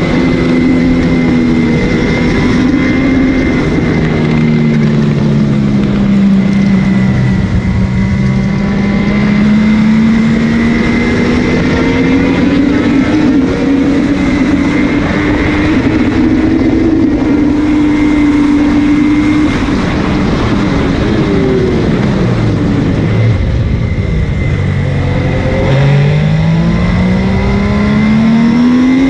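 MV Agusta F3's three-cylinder engine at racing speed, recorded on board. The engine note climbs slowly through the middle, falls away for several seconds as the bike slows, then rises again near the end as it accelerates.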